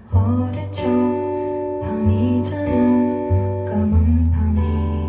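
Acoustic guitar playing the chords of a slow folk song, with deep bass notes that change about once a second.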